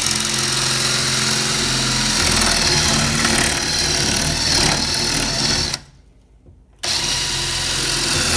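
Hand-held power tool with a bit running and cutting into the plywood under a laminate countertop, hogging out a void. It stops about six seconds in, then starts again a second later.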